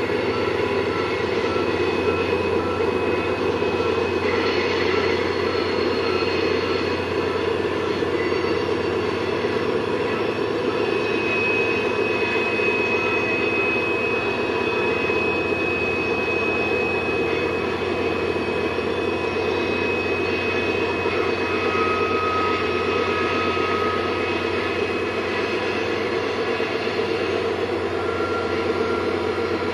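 Freight train rolling slowly past with its rear pusher diesel locomotives working, a steady heavy rumble. Thin high wheel squeals from the curve come and go over it, one held for about ten seconds in the middle.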